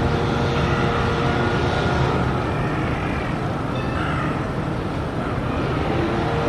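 Steady urban traffic noise: a continuous low rumble with a steady hum, as from trams and road vehicles, with faint short chirps about four seconds in.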